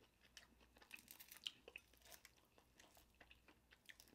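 Faint, close-miked chewing of a fried chicken wing: scattered small crunches and mouth clicks, most of them about one to two seconds in.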